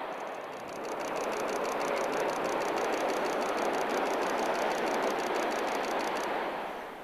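Hokuriku Shinkansen E7/W7 series train running past at speed: a steady rushing noise of air and wheels on rail, with a rapid high ticking over most of it, cutting off suddenly near the end.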